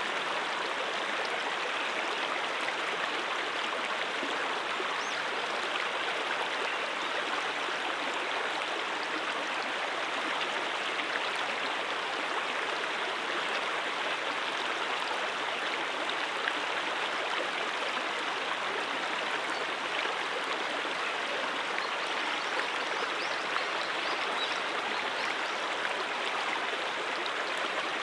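Stream water flowing: a steady, even rush of water with no breaks.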